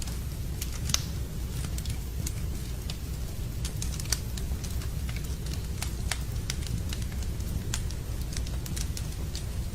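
Wood campfire crackling, with irregular sharp pops, the loudest about a second in and about four seconds in, over a steady low rumble.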